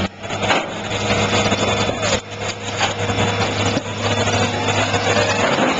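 A vehicle engine running steadily with a constant low hum, the sound cutting abruptly near the start, about two seconds in and again near four seconds.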